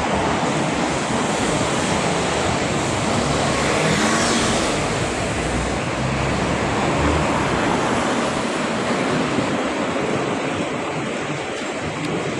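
City street traffic: a steady wash of engine and tyre noise, with a vehicle passing about four seconds in.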